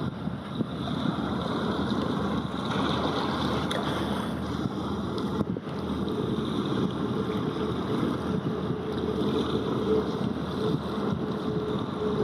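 Wind rushing over an outdoor microphone, with a faint steady hum that comes in about halfway through and grows clearer toward the end.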